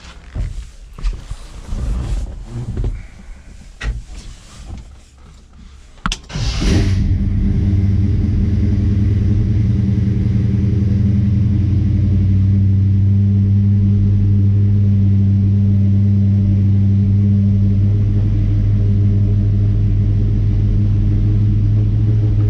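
A few scattered knocks and thumps. About six seconds in, the 1952 Chevrolet 3100's 350 small-block V8 with a four-barrel carburettor fires on a cold start and settles into a steady, fast idle with the choke still on.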